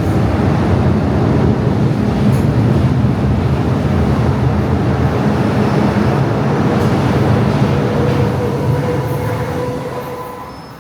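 MTR M-Train electric multiple unit pulling out and running along the track, a loud, steady rumble of wheels and carriages. A faint steady whine appears about three quarters of the way in, and the rumble fades over the last couple of seconds as the train leaves.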